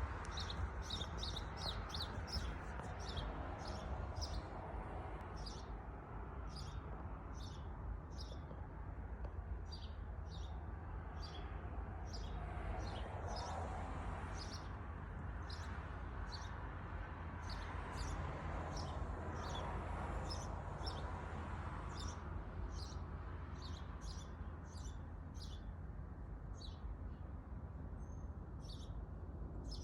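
A bird chirping over and over in short, high chirps, several a second at first and more spaced out later, over a steady low background rumble.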